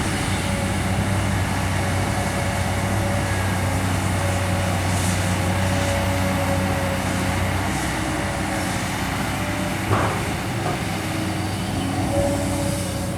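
Kobelco SK200 excavator's diesel engine running steadily with a high hydraulic whine as it works; the engine note eases about eight seconds in, and a single metallic knock sounds about ten seconds in.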